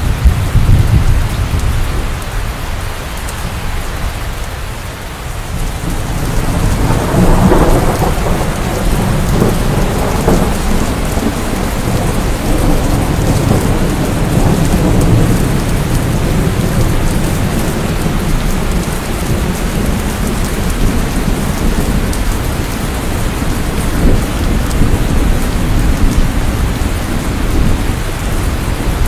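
Steady rain falling in a thunderstorm, with low thunder rumbling underneath. A loud roll of thunder comes right at the start, and another swells and rolls off about seven to ten seconds in.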